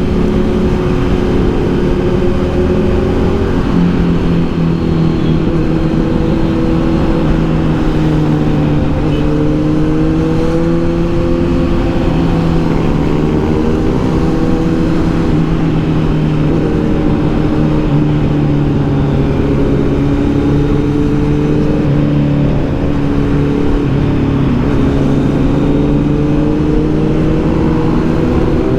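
Kawasaki Z900's inline-four engine running under way at moderate, fairly steady revs. Its pitch drifts gently up and down with small throttle changes, with no hard revving.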